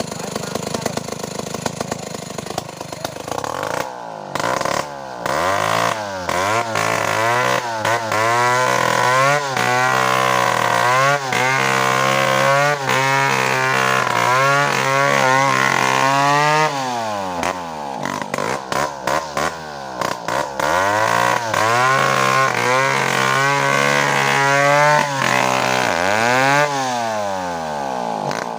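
Two-stroke chainsaw running hard, its engine pitch repeatedly rising and falling as the throttle is opened and eased, with brief dips in between.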